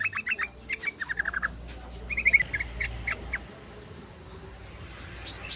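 Yellow-vented bulbul (trucukan) chattering song: quick runs of short, falling chirps in bursts, fading out about three and a half seconds in.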